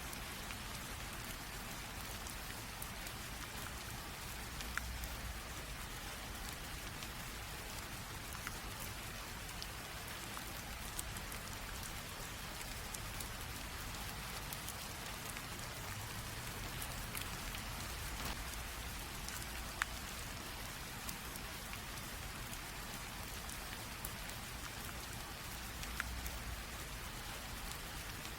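Light rain falling steadily, an even patter with scattered louder single drops ticking on a hard surface.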